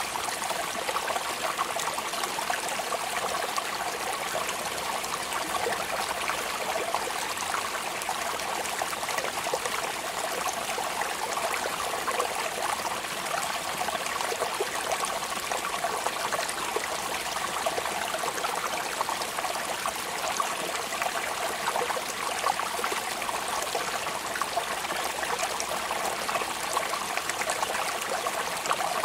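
Steady rain, an even, continuous hiss of falling water with no pauses or distinct drops standing out.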